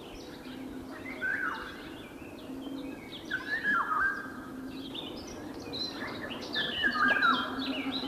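Several birds singing together: quick high chirps repeat throughout, and a louder, lower call with falling notes comes about a second in, again around three and a half seconds, and near seven seconds.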